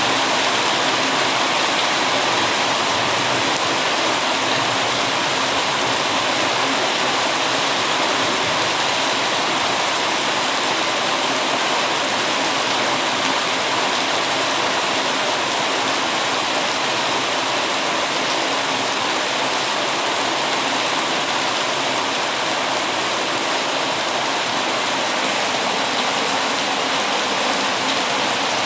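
Steady heavy rain, an even rushing hiss that does not let up.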